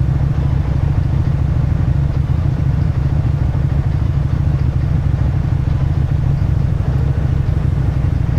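Motorcycle engine and exhaust running at a steady pitch under the rider, a close, loud, even pulsing with no revving up or down.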